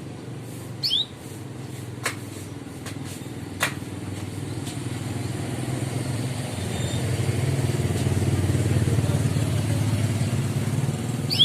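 A canary gives one short sweeping 'cuit' chirp about a second in, followed by two sharp ticks. Then the low rumble of a passing motor vehicle's engine swells, loudest in the second half, drowning the background.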